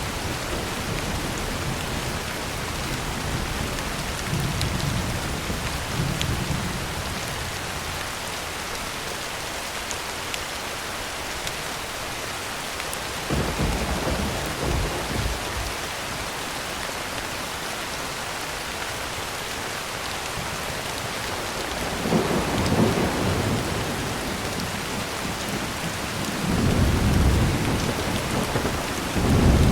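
Heavy rain falling on a tin roof in a steady hiss, with several low rolls of thunder rumbling through it, the loudest near the end.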